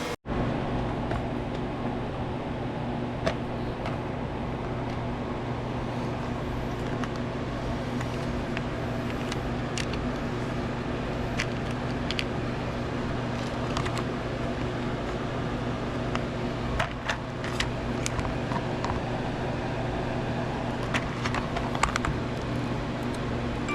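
A steady low electrical hum with scattered small clicks and taps, from hand tools and wire being handled, more frequent near the end.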